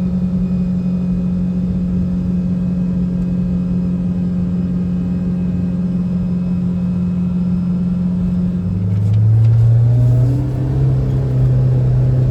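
Kawasaki six-seat side-by-side's engine running under way, heard inside its enclosed cab: a steady drone that, about nine seconds in, drops to a lower, louder note.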